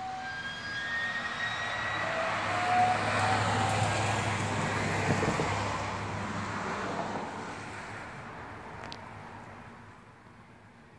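A rushing rumble swells over a few seconds and then fades away, with a steady low hum underneath. Early on, a few faint, drawn-out metallic tones, the uploader's "strange sounds", trail off.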